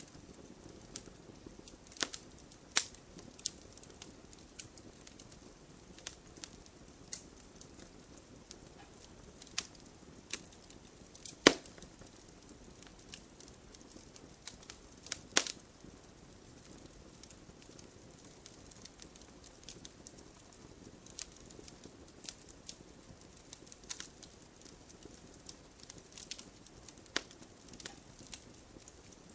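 Wood fire crackling in a fireplace: irregular sharp pops and snaps, the loudest about a third and halfway through, over a steady soft hiss.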